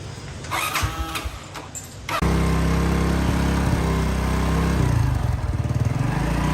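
Small motorbike engine running steadily at idle, cutting in abruptly about two seconds in. Before it there are a few faint clattering sounds and a brief voice.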